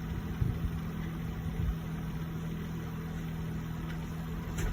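Steady low electrical hum from workbench equipment, with a few light knocks and a short click near the end.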